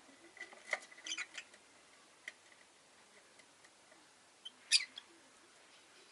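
Rosy-faced lovebird making a few short, sharp chirps and clicks: a cluster about a second in, one more a little later, and the loudest burst near five seconds.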